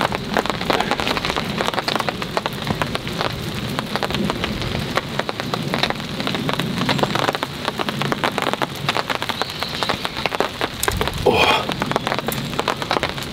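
Heavy rain falling steadily, a dense spatter of close drop hits.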